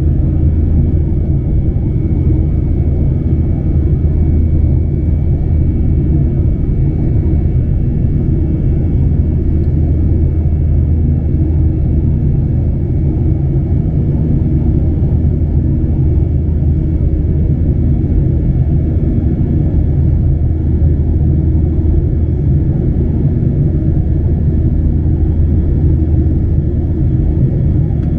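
Steady low rumble of a Boeing 737-900ER heard inside the passenger cabin, with a faint steady high whine on top.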